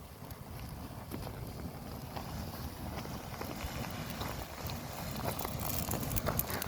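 A large bonfire of loose matches burning, crackling with scattered sharp pops that come thicker near the end, over a low rumble of wind on the microphone.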